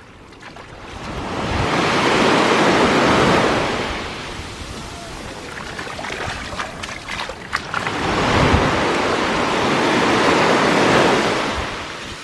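Sea waves breaking and washing up the beach in two long swells, the first building to a peak about two to three seconds in and the second about eight to eleven seconds in, with a few faint clicks in between.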